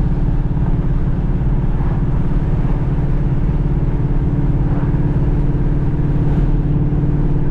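Ford Mustang Boss 302's 5.0 L V8 droning steadily through aftermarket side pipes at a constant cruising speed, with no change in revs, heard from inside the moving car.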